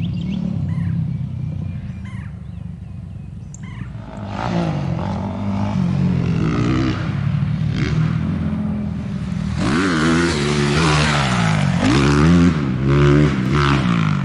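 Honda CRF450R dirt bike engine being ridden, running steadily at first, then revving up and down again and again from about four seconds in as the rider works the throttle and gears, with rushing wind noise over it in the second half.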